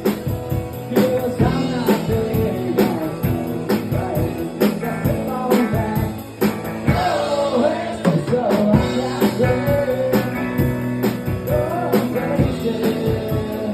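A live country-rock band playing: guitar with bending lead lines over a steady drum beat, with some singing.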